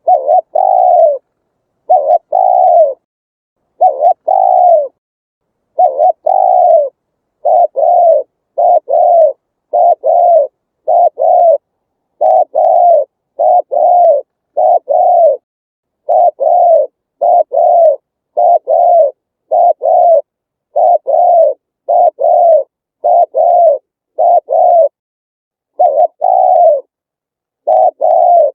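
Spotted dove cooing: a long, evenly paced run of low coos, one after another, with dead silence between the notes.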